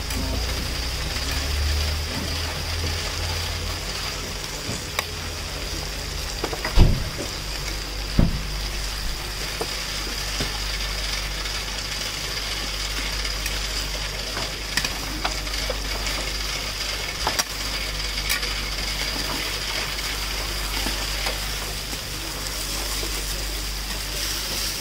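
Aubergine and minced meat sizzling in a large steel paella pan, stirred and scraped with a metal spatula. A few sharp knocks of the spatula against the pan stand out, the loudest about seven and eight seconds in, over a low steady hum.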